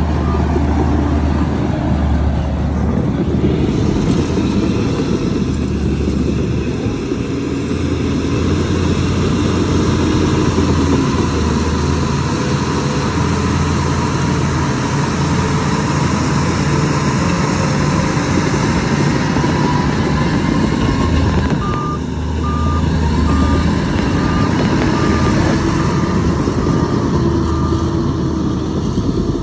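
Heavy machine's diesel engine running steadily at work, with a reversing alarm beeping about once a second for a few seconds past the middle.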